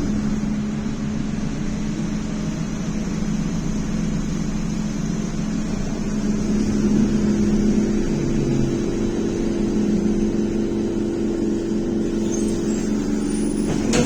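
BKM-321 trolleybus riding, heard from inside: the electric traction drive gives a steady hum with an even low whine over road and body noise. A second, higher tone joins the whine about halfway through.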